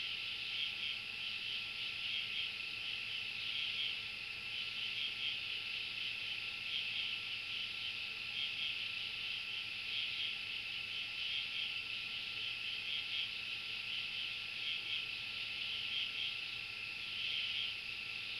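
Steady night chorus of calling insects or frogs, high-pitched and evenly pulsing, running on without a break.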